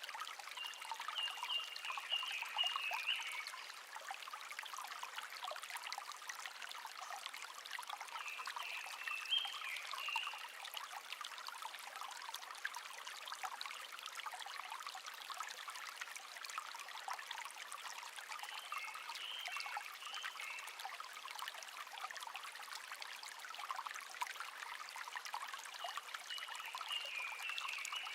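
Small stream trickling and babbling steadily over stones, with a songbird singing a short, falling phrase four times, roughly every eight seconds.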